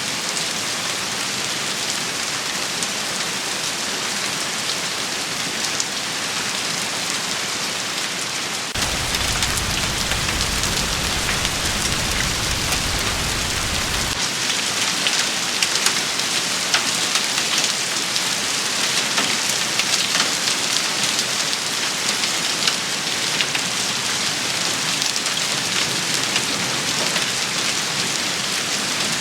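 Steady heavy rain, a dense even hiss with scattered sharp drop ticks. A low rumble comes in suddenly about nine seconds in and cuts off about five seconds later.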